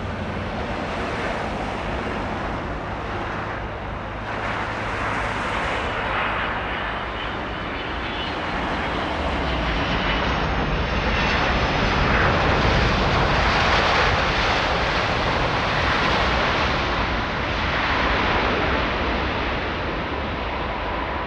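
Jet airliner's engines passing by, a broad roar with a faint high whine that swells to its loudest a little past the middle and then eases slightly.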